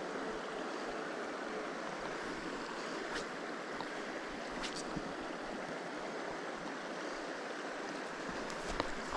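Steady rushing of a shallow stream's current, with a few faint ticks.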